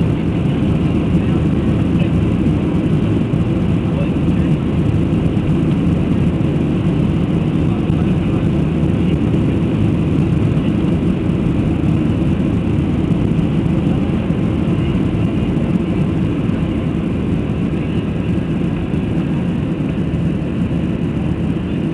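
Aeroplane engine noise during a takeoff: a loud, steady drone with no rise or fall in pitch or level.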